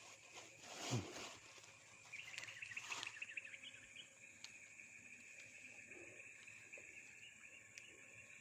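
Insects trilling outdoors: a steady, high, faint buzzing trill sets in about two seconds in and holds. A short, louder low sound comes about a second in.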